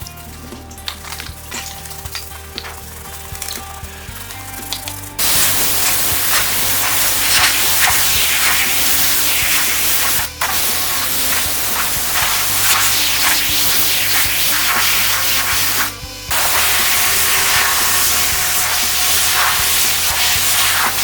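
Loud steady spraying hiss that starts about five seconds in and breaks off briefly twice, over background music.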